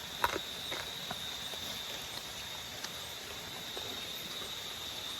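Nocturnal tropical forest insects, a cricket-like steady high trill, over a hiss of background noise, with a few sharp clicks, the loudest about a quarter second in.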